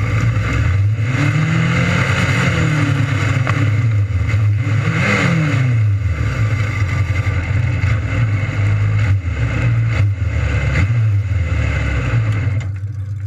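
600cc micro sprint race cars running at high revs on the track, with engine pitch sweeping up and down as cars pass, about two and five seconds in. The sound eases off slightly near the end.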